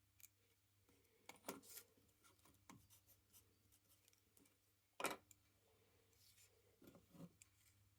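Faint, scattered clicks and knocks of objects being handled, with a cluster about a second and a half in and the loudest knock about five seconds in.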